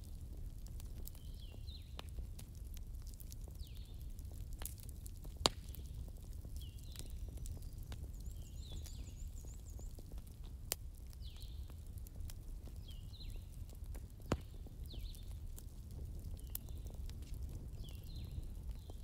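Fireplace crackling with scattered snaps and three louder pops over a low steady rumble, while a small bird chirps short, falling calls about once a second.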